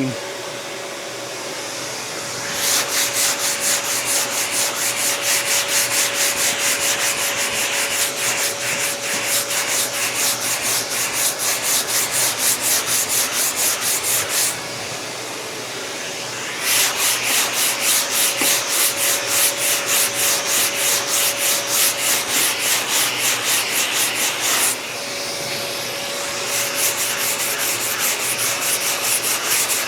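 Hand block sanding with 80-grit sandpaper, leveling body filler on a car fender: quick rhythmic back-and-forth rasping strokes, in three long runs with brief pauses between them.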